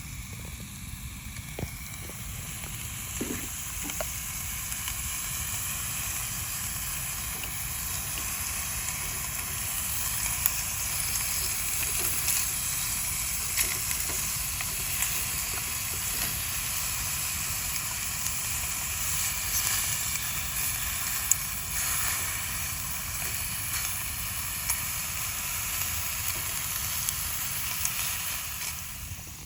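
Food sizzling over a campfire: a steady hiss with scattered small crackles and pops, fading out near the end.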